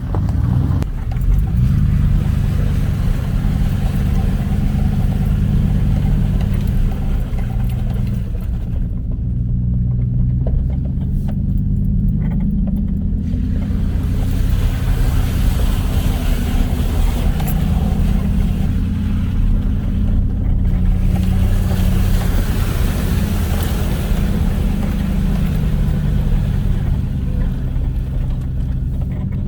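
Off-road vehicle's engine running under load on a rough trail, its pitch rising and falling as the throttle changes. A hiss above it fades out for a few seconds about nine seconds in.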